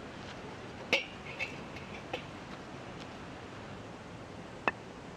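Steady hiss with a few short, sharp clicks and knocks, the sharpest near the end.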